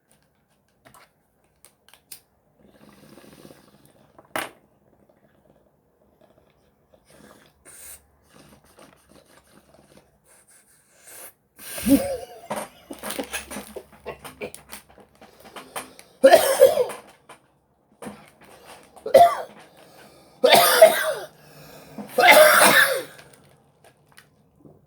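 A man coughing, several hard coughs in the second half after a quieter stretch.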